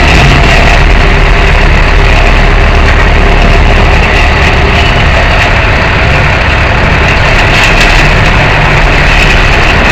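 Tow truck's engine running steadily, a continuous low drone with no change in pace.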